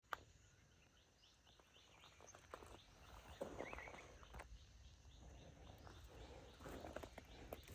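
Near silence: faint outdoor ambience with small, distant bird chirps and a click right at the start.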